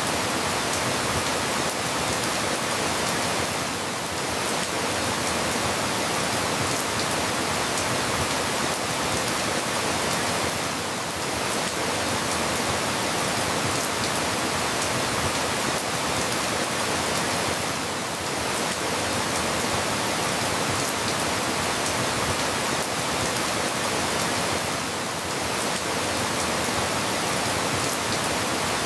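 Steady rain falling, a dense even hiss with fine patter, dipping slightly about every seven seconds.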